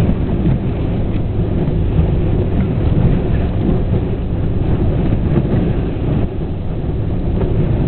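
Storm wind from a hurricane gusting against the microphone in a loud, continuous low rumble, with rain.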